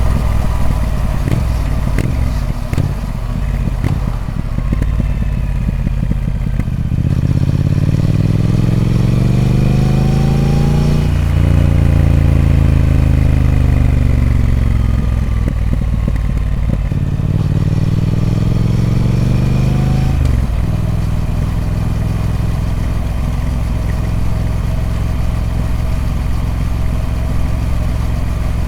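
Triumph Speed Twin 1200's 1200 cc parallel-twin engine through its stock exhaust, under way. It runs choppy and uneven at first, then climbs in revs. After a sudden break about eleven seconds in, the revs fall away and rise again, then drop sharply about two-thirds of the way through into steady running.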